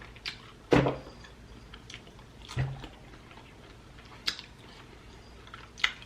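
A few scattered wet mouth clicks and chewing smacks close to the microphone, the strongest just under a second in and again around two and a half seconds in.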